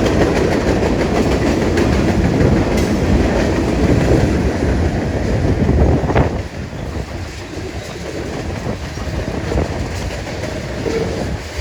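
Freight train cars rolling past, wheels clattering over the rail joints. The sound drops noticeably a little past halfway and carries on quieter.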